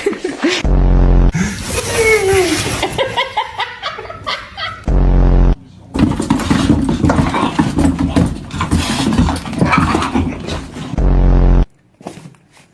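Cartoon soundtrack: laughing and gliding, squeaky cartoon voices, cut into three times by a short, loud, low buzzing sound effect.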